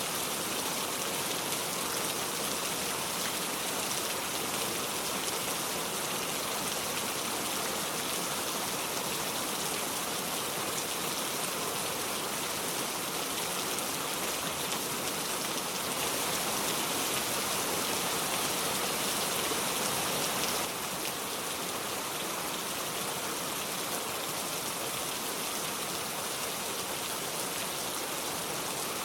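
Heavy rain falling steadily, a dense even hiss of drops with no thunder. It rises a little a bit past the middle, then drops back abruptly a few seconds later.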